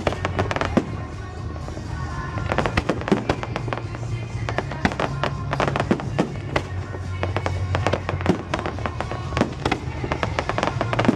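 Fireworks going off in quick succession, many sharp bangs and crackles, over music with a steady bass line.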